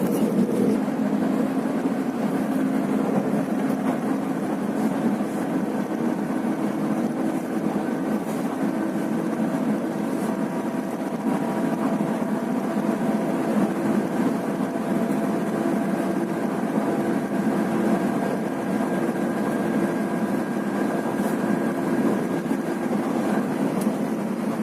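Scania bus running steadily along a highway: a constant engine drone and road noise with a few faint steady whine tones above it.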